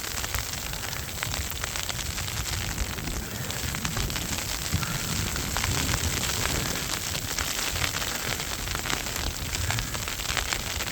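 Snowstorm wind buffeting the microphone, with a steady crackling hiss of blowing snow and many small ticks.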